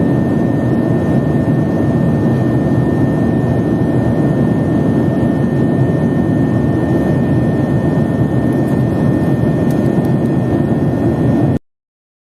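Steady jet engine noise heard inside an airliner cabin, with a faint thin steady tone above it; it cuts off suddenly near the end.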